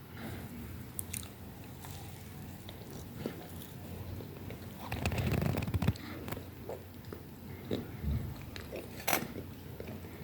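Close-up eating sounds: irregular crunchy bites and chewing, loudest about halfway through.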